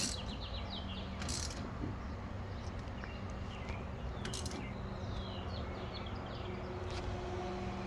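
Small birds chirping in short sliding calls, with three sharp clicks spaced about three seconds apart and a steady low hum underneath.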